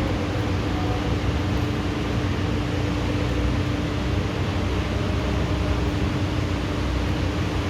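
Steady hiss of heavy rain falling during a thunderstorm, with a steady low hum underneath.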